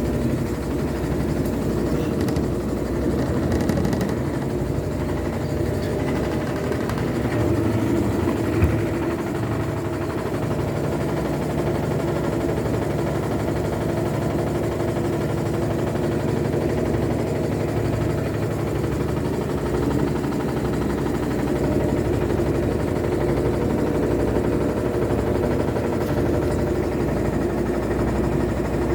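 Steady mechanical running noise with a constant pitched hum from an LT12F, the noise its owner calls irritating. A single short knock about nine seconds in.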